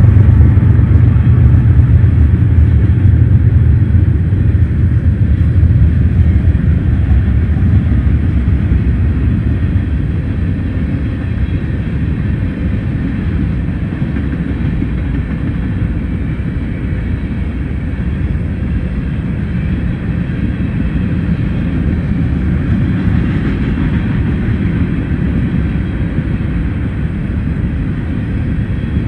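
Freight train passing: a diesel locomotive's low rumble fades over the first few seconds, leaving the steady roll and rattle of ballast hopper cars' wheels on the rails.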